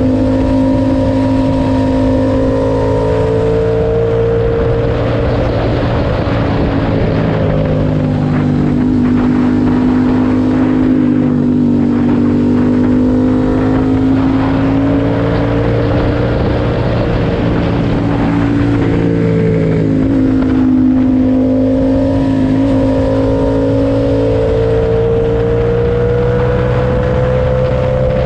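Yamaha MT-07's parallel-twin engine through an SC Project aftermarket exhaust with its dB killer fitted, running under way while riding, its pitch rising and falling several times as the throttle is opened and rolled off, over a steady rush of road and wind noise.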